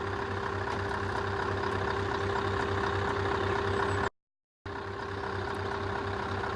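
Scania truck's diesel engine idling steadily, with an even low pulse and a constant hum. The sound cuts out completely for about half a second a little after four seconds in.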